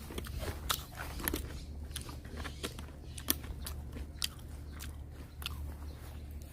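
People eating ramen: irregular light clicks and taps, likely chopsticks against bowls, with chewing, over a steady low hum.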